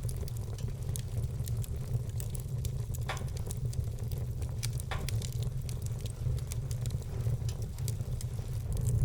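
Wood fire crackling: a dense run of small sharp crackles, with two louder pops about three and five seconds in, over a steady low rumble.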